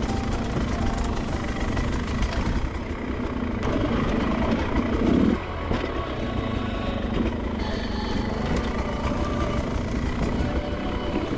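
Beta 300RR two-stroke dirt bike engine running and being throttled on and off, with a louder burst of throttle about four to five seconds in that cuts off sharply.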